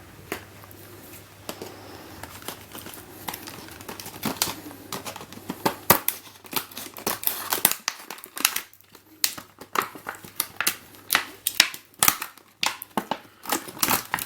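Toy packaging being opened and handled: crinkling and rustling, with a quiet start and then many short crackles and clicks from about four seconds in.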